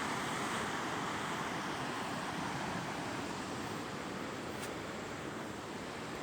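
Steady, even hiss of ocean surf and wind, slowly getting a little quieter.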